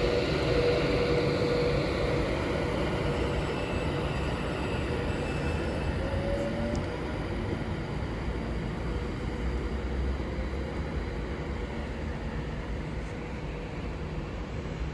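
Class 390 Pendolino electric train pulling away from the platform: a steady rumble with a humming tone, a brief rising tone about six seconds in, slowly fading as it leaves.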